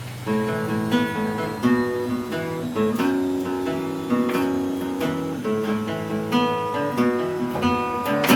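Acoustic guitar playing, a run of plucked and strummed chords that starts a moment in and carries on as an instrumental passage.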